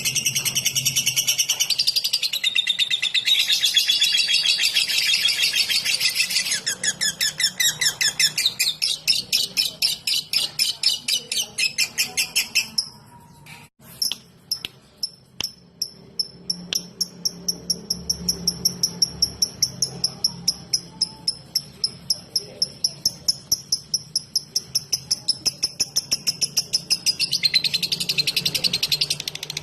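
Lovebird singing its rapid 'ngetik' song: a dense, fast run of high chirps that breaks off about halfway through. It resumes as a long string of sharp, evenly spaced ticks about four a second, swelling back into dense chattering near the end.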